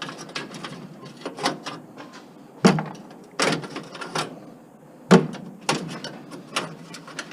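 Irregular metal clanks, clicks and rattles from hand tools and scrap appliance parts being pulled apart, with a few sharper knocks.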